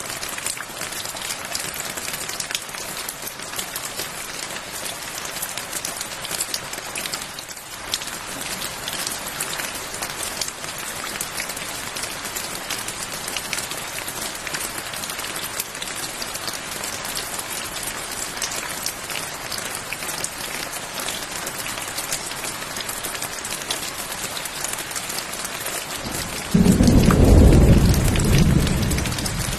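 Steady rain with a dense patter of drops. Near the end a loud, low thunderclap starts suddenly and rumbles for about three seconds, fading away.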